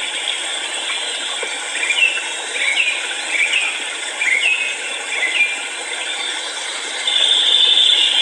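A bird calling in a series of short, high chirps, about nine of them half a second or so apart, over a steady background hiss. A steady high buzz starts about a second before the end.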